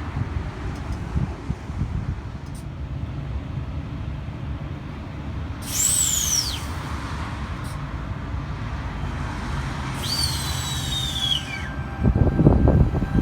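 Four-car V-set electric intercity train standing at the platform, a steady low rumble. Two high whistles fall in pitch about six and ten seconds in, the second one longer, and a loud low rush of noise comes about twelve seconds in.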